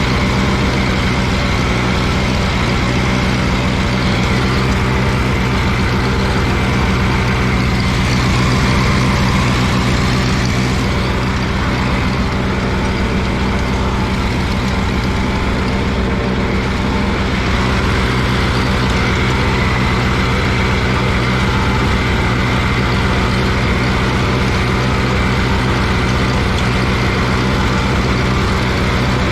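Allis-Chalmers G tractor's small rear-mounted four-cylinder engine running steadily at raised throttle, working in first gear as the tractor pulls a cultivator through the row.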